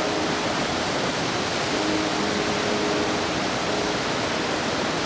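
Floodwater in a swollen river rushing, a steady, dense, unbroken sound of churning water.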